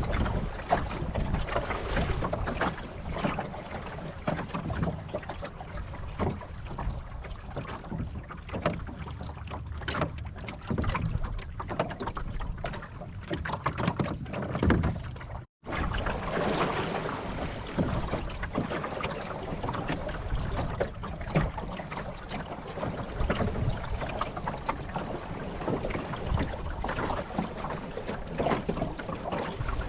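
Water rushing and splashing along the hull of a small wooden sailboat under way, with wind noise on the microphone and scattered knocks. The sound drops out for a moment about halfway.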